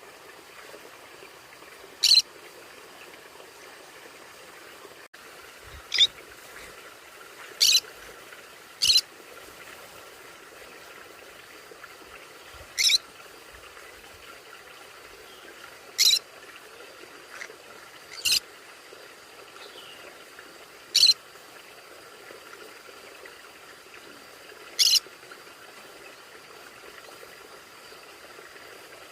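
Conures giving short, high-pitched squawks, about nine single calls a few seconds apart, over a steady faint hiss.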